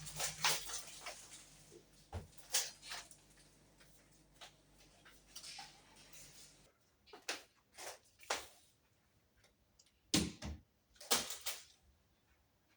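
Scattered knocks, clicks and light clatter of household things being handled, like doors or drawers opening and closing, over a low steady hum that cuts off about seven seconds in.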